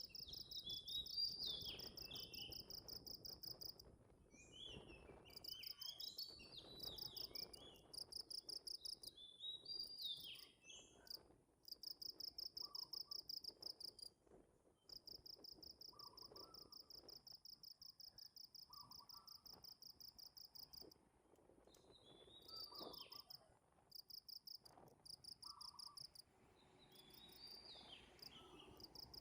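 Cricket trilling in long runs of rapid, even pulses with short breaks between them, while birds chirp in short gliding notes. Faint overall.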